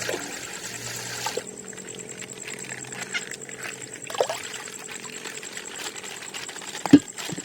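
Plastic ice bag full of coloured water being handled and burst open, water trickling and pouring out, with one sharp click near the end.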